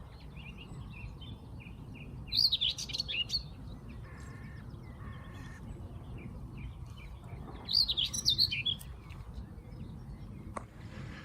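Common whitethroat singing: two short, scratchy song phrases about five seconds apart, with fainter calls of other hedgerow birds between them.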